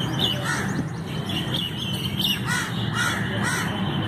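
Birds calling: about four short calls, three in quick succession in the second half, with higher chirps between, over a steady low background rumble.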